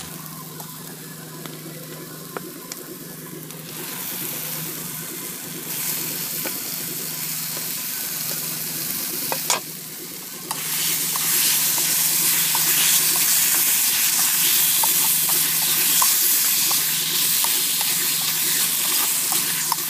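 Onion-tomato masala sizzling in a hot metal pot as raw chicken pieces go in and are stirred through with a metal spatula. The sizzle grows louder about ten seconds in, with small clicks of the spatula against the pot.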